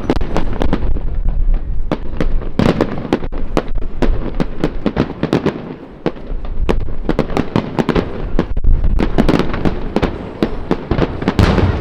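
Fireworks display: a dense, continuous barrage of sharp bangs and crackles, several a second, easing briefly about halfway through before building again.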